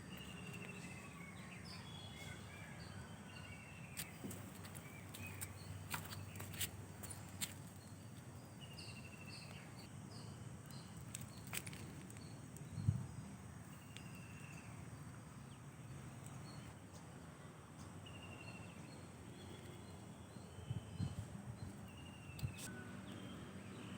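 Birds calling outdoors, one repeating a short, slightly falling phrase every four to five seconds, with smaller chirps among them, over a low steady background hum. A few sharp clicks and one low thump about halfway through.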